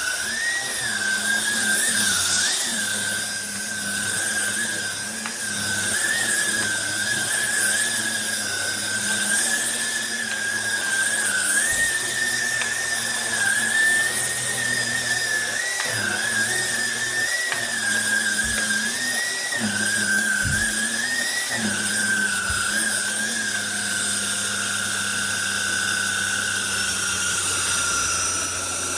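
Cordless vacuum cleaner running, its small high-speed motor giving a high whine that wavers up and down as the suction load changes, over a steady hum and rushing air.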